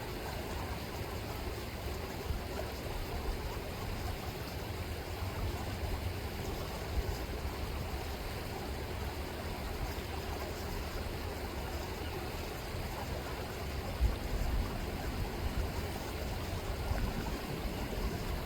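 River water rippling and rushing steadily, with low gusts of wind buffeting the microphone, heaviest about two-thirds of the way through.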